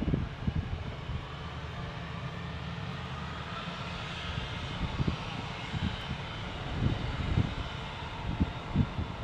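Airbus A320-200 jet engines running, a steady rushing sound that swells a few seconds in. Irregular low thuds of wind buffeting the microphone break through, several of them near the start and toward the end.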